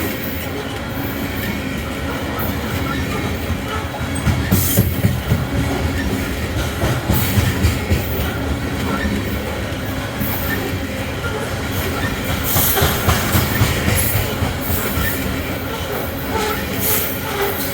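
Loaded coal hopper cars of a freight train rolling past, with steady low rumble, rhythmic clicking of wheels over rail joints and brief high wheel squeals, busiest near the middle and end.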